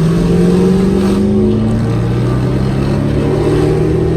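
Muscle car engine accelerating hard under open throttle. The engine note climbs steadily, with a gear change about two seconds in, then keeps rising.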